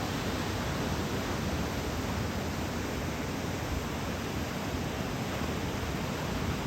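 Steady, even rushing roar of ocean surf breaking in a typhoon swell.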